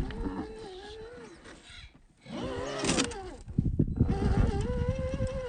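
RC rock crawler's electric motor and drivetrain whining under load, slowed to half speed so the whine is deep and drawn out. The whine wavers, then holds steady for the last couple of seconds, over a run of low knocks from the tyres and chassis on rock.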